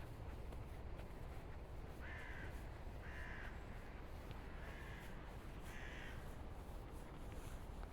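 A bird calling four short times, about a second apart with a pause in the middle, over a steady low rumble.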